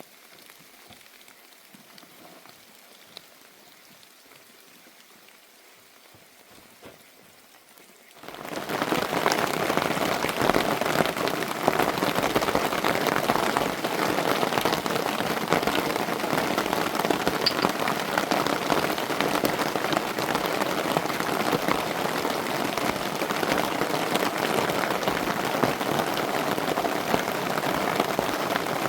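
Heavy rain falling, a dense steady pattering that starts abruptly about eight seconds in. Before that there is a quiet stretch with a few faint ticks.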